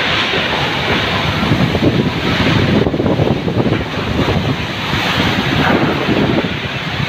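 Windstorm gusts blowing hard, a loud rush of noise with gusty low rumbles as the wind buffets the microphone.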